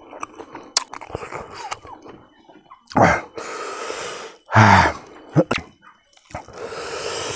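Close-miked mouth sounds of a man eating rice and roasted pork fat with his hands: wet chewing and lip smacks, with two loud breathy bursts about three and four and a half seconds in, the second carrying a low hum.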